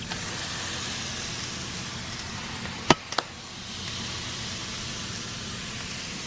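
Food sizzling steadily in a hot frying pan, with two sharp clicks about three seconds in.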